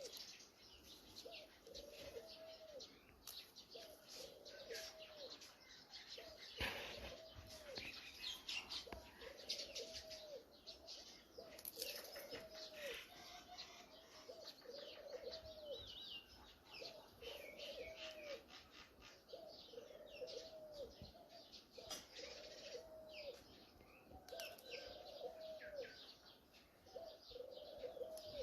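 Faint birdsong: a low call repeated evenly about every second and a half, over the scattered chirping of small birds.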